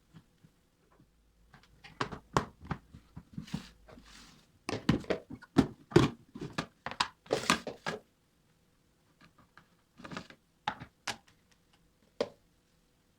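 A quick run of knocks, clicks and light thuds as household objects are handled and set down, densest in the first half, then a few more single knocks near the end.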